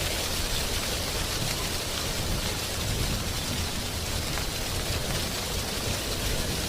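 Wind blowing through drying tree leaves: a steady, dense rustle with a low rumble underneath.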